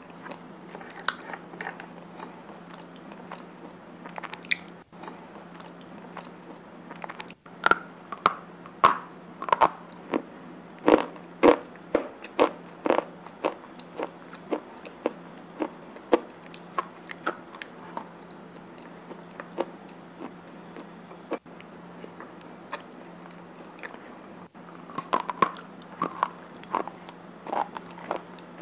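Slate pencils being bitten and chewed with red clay paste, close to the microphone: sharp, dry crunches in a quick run from about a quarter of the way in, sparser after that, then another quick run near the end. A steady low hum lies underneath.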